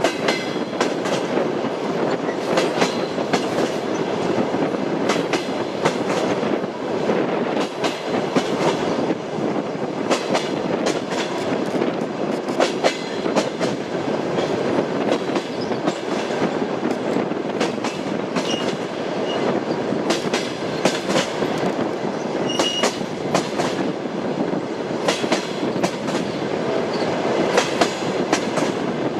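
A moving train's wheels clicking over the rail joints, over a steady rumble from the running train.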